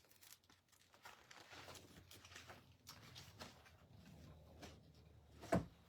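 Faint light taps and clicks of handling on a tabletop, with one sharper knock near the end.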